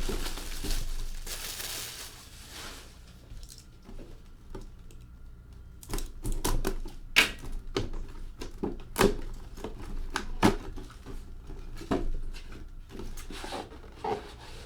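Box and packaging being opened and handled by hand: a rustle of wrap or cardboard at the start, then from about halfway on a run of irregular sharp clicks and knocks.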